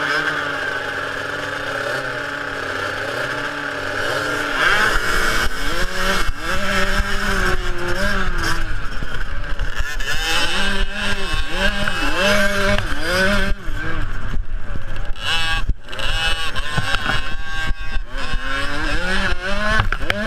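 Small two-stroke youth motocross bikes running, first at a steady note, then louder from about four seconds in as the engines rev up and down again and again through the gears while racing.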